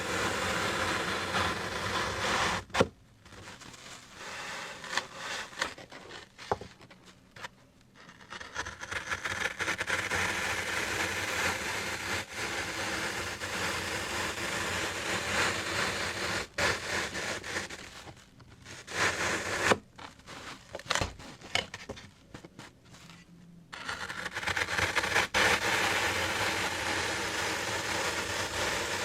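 Close-miked scraping and rustling on objects as an ASMR trigger, broken by scattered sharp taps, with two pauses of a few seconds where it nearly stops.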